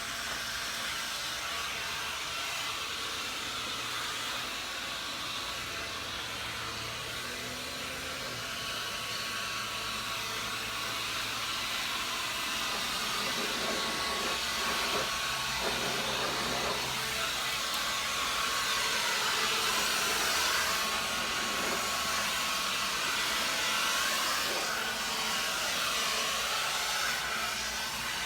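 Electric leaf blower running steadily, a continuous rushing hiss of air, getting a little louder about halfway through.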